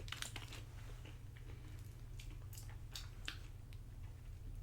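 Faint chewing of nachos, with a scattered series of short crunches from the tortilla chips being bitten and chewed.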